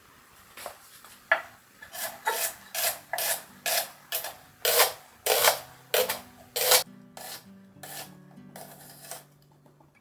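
Repeated rasping strokes, about two a second, loudest through the middle and fading to softer strokes near the end.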